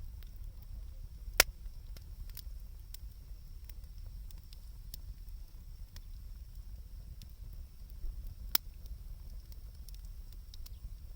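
Wood bonfire crackling, with scattered small clicks and two sharp pops, one about a second and a half in and one near the end, over a steady low rumble.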